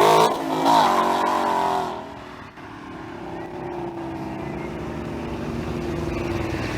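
A car engine revving hard, its pitch climbing and falling over the first two seconds, then dropping abruptly to a quieter, steady run as the car leaves.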